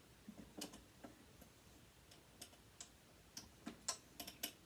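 Faint, irregular small clicks and taps of metal parts and a hex key being handled while a sewing machine motor is taken apart, coming more often toward the end.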